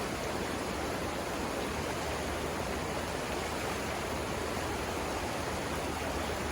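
Steady rushing of river water flowing over rapids, an unbroken roar without change.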